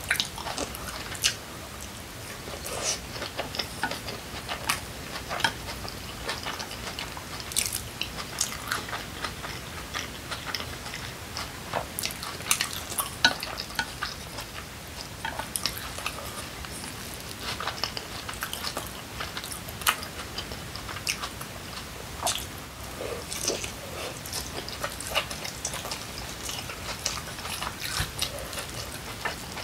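Close-miked chewing of kimchi pancake (kimchijeon): an irregular run of small wet clicks and crackles from the mouth, with now and then chopsticks scraping and tapping on the plate.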